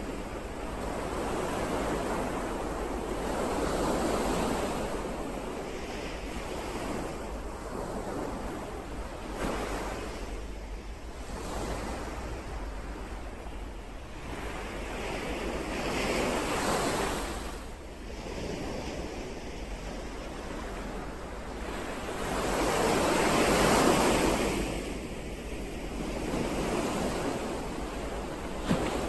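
Ocean waves breaking and washing in, the surf swelling and easing every several seconds, with the biggest surge late on.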